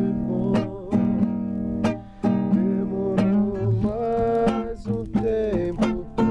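Acoustic guitar strummed in a steady rhythm, about one stroke a second, playing a song's introduction.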